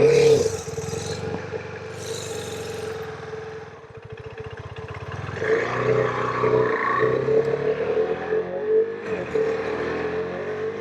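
KTM 390 Adventure's single-cylinder engine running at low speed. It drops off about four seconds in, then revs up and pulls harder from about five and a half seconds in.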